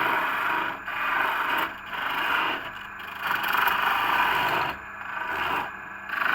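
Home-built lathe at work, a tool scraping against the spinning workpiece in strokes about a second long with brief breaks between them.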